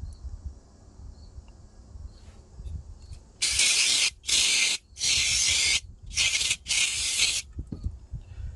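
Five short hissing blasts from an aerosol spray can, starting about three and a half seconds in, as carburetor cleaner is sprayed into a lawnmower carburetor to clean it out.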